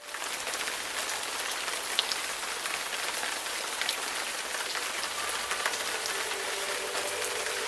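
Steady rain falling, a dense hiss of drops with a few louder single drop hits. It cuts in suddenly at the start.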